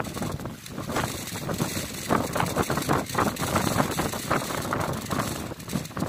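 Strong wind buffeting the microphone on a fishing boat: an uneven rushing noise that swells and drops in gusts.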